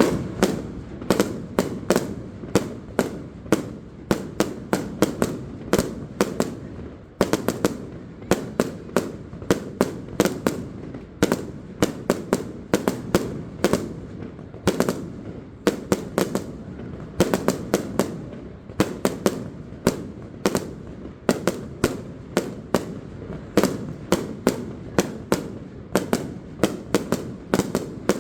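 Aerial fireworks shells bursting in a steady barrage of sharp bangs, two or three a second, with a rumble ringing on between them and a short break about seven seconds in.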